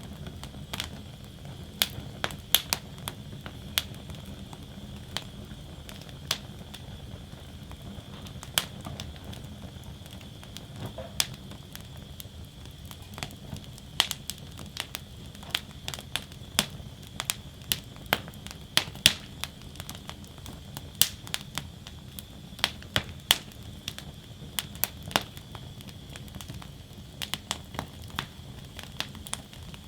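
Wood fire burning in a fire basket: irregular sharp crackles and pops of burning wood, some louder than others, over a low steady rumble of the flames.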